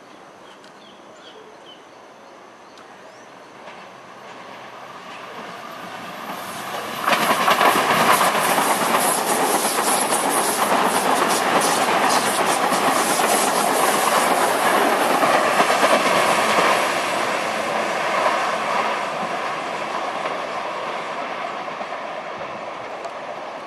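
Electric multiple-unit commuter train approaching and passing close, its wheels clacking over rail joints. The sound builds gradually, comes up sharply about seven seconds in as the train reaches the spot, and fades slowly over the last several seconds.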